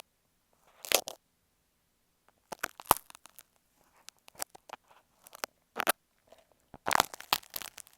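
Sewing pins scratching and poking directly against an earphone microphone, giving sharp crackly scratches in several short clusters with quiet gaps between.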